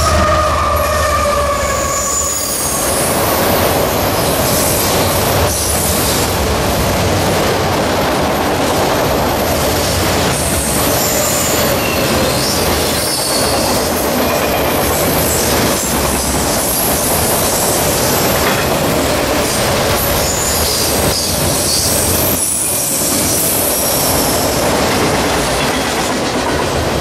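A long autorack freight train passing at speed: a steady rush and clatter of wheels on the rails, with high wheel squeal coming and going. In the first two seconds there is a pitched tone from the passing lead locomotive.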